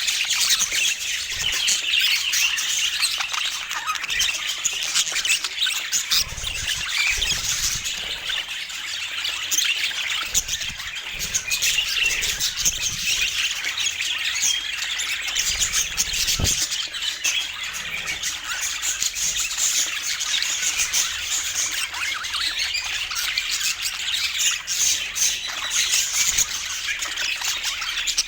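A group of pet birds chattering without pause, a dense mix of short high-pitched calls and chirps overlapping one another, with a soft low thud about sixteen seconds in.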